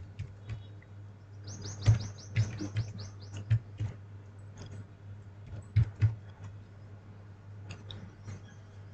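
A bird chirping in the background: a quick run of high, falling chirps about a second and a half in, then fainter chirps. Scattered sharp clicks and a steady low hum run underneath.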